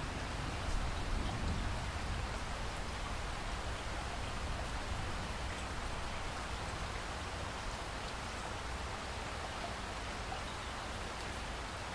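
Steady rain falling, an even hiss with scattered faint drop ticks, slightly heavier in the first couple of seconds.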